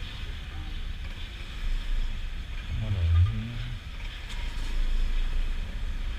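Honda PCX scooter's single-cylinder engine running while riding, under steady wind rush on the microphone, with a brief louder low hum about three seconds in.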